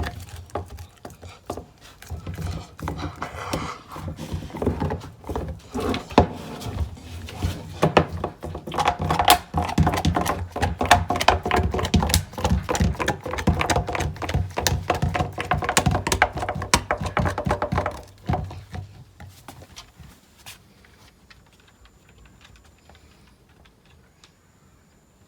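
American Bully dog crunching and gnawing on deer bones: a dense run of cracks and crunches with low thuds that stops about eighteen seconds in, leaving only faint sounds.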